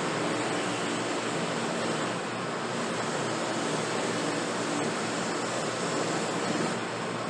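Steady rushing noise of a workshop machine running continuously, with a faint low hum underneath.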